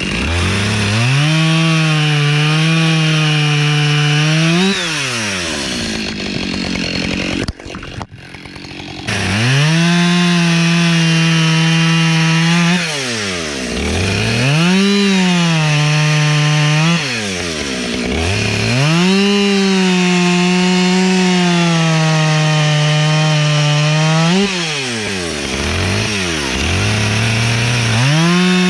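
Husqvarna two-stroke chainsaw bucking dry oak logs into firewood rounds. The engine revs up to a high, steady pitch under load for several seconds at a time and drops back to idle between cuts, about five times, with a short break about eight seconds in.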